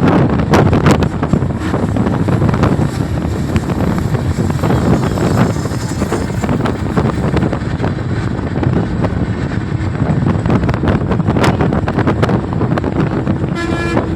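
Steady rumble and rush of a moving vehicle, with wind buffeting the microphone. A short pitched tone comes in near the end.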